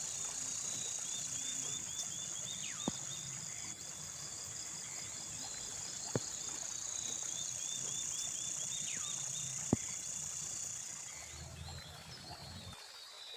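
Evening chorus of insects and frogs: a steady high insect drone that fades out near the end, with rows of quick repeated chirps and a few falling whistle-like calls. Three sharp knocks fall evenly spaced through it.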